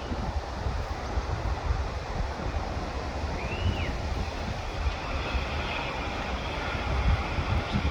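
Strong wind buffeting the microphone: a gusty low rumble, with one faint short high chirp about three and a half seconds in.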